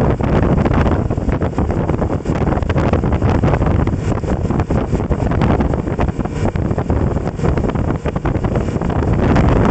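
Heavy wind buffeting the microphone while on the move, a steady low rumble that flutters and gusts throughout.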